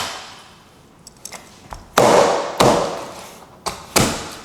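Knife chopping through bony chicken back on a cutting board: four irregular sharp strokes, one right at the start, two about two seconds in and two near the end.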